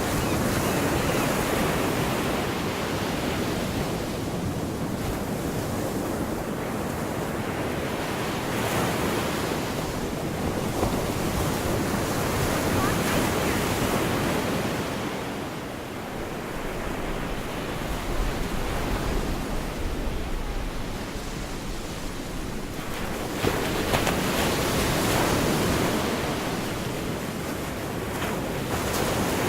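Gulf of Mexico surf washing onto the beach, a continuous hiss that swells and eases as each wave breaks and draws back. Wind buffets the microphone with a low rumble around the middle.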